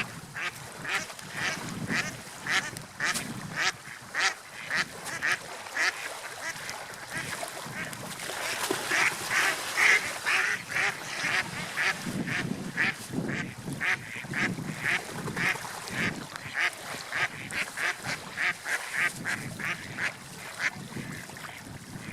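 Gulls calling in a long run of short repeated notes, about two to three a second, loudest about halfway through, over a low rush of wind and surf.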